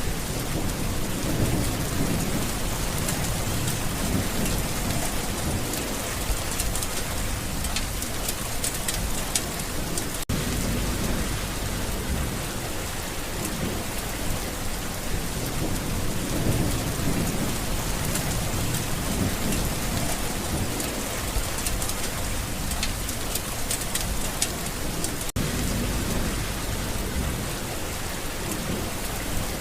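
Steady rain falling, with low rumbles of thunder swelling and fading every several seconds.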